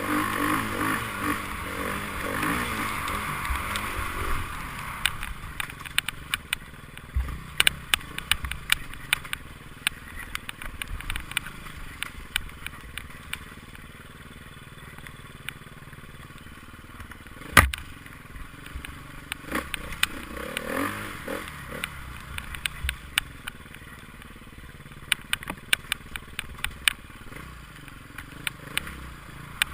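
Enduro motorcycle engine running hard, then fading away over the first few seconds. After that come many scattered sharp clicks and ticks, with one loud knock at about eighteen seconds and another faint motorcycle engine passing a couple of seconds later.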